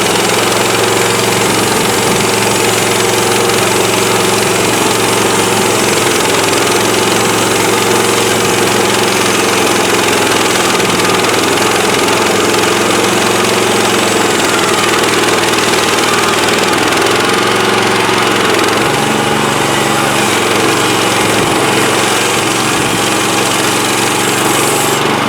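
Petrol engine of a Woodland Mills HM130MAX portable band sawmill running steadily, with a steady hiss over it. Its note changes about 19 seconds in.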